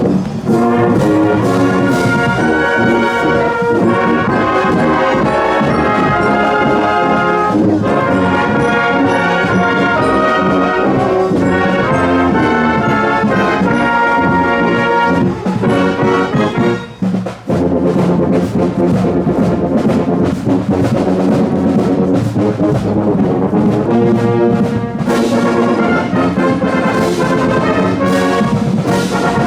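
School marching band playing brass music on the move, trumpets and trombones over a steady beat, with a brief pause about halfway through before the playing resumes.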